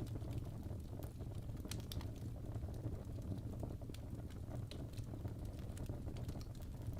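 Wood fire burning in a fireplace: a steady low rush with frequent small, irregular crackles and pops from the burning logs.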